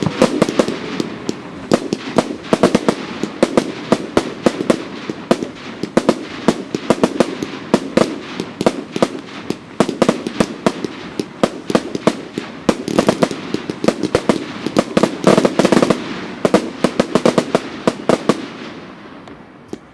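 Fireworks crackling in a long, dense run of rapid pops that thins out and dies away near the end.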